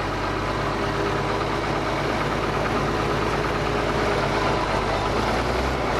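Ford TW tractor's six-cylinder diesel engine running steadily while pulling a plough.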